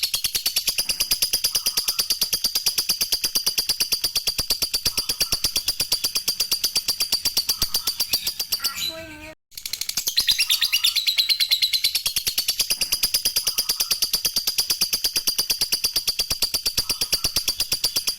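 Lovebird 'ngekek' song: a long, rapid, rhythmic chattering of sharp, high chirps at about five a second. It breaks off briefly about nine seconds in, then starts again.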